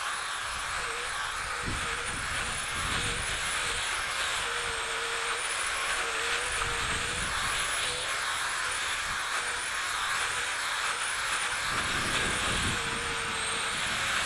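Chainsaw running steadily at high speed while cutting, its engine whine dipping briefly in pitch again and again as the chain takes load.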